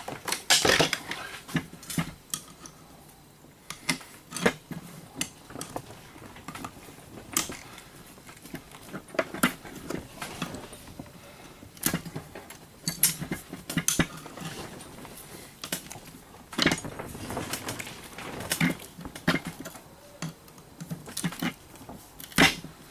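Irregular clinks, clicks and knocks of metal parts and hand tools being handled while a coffee grinder is taken apart to free its power cord.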